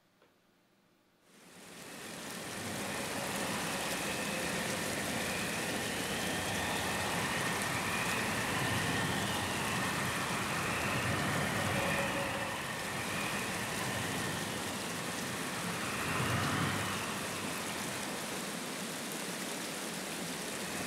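Storm sound effect: a steady rush of rain noise that swells in about a second in, with faint whistling glides rising and falling above it.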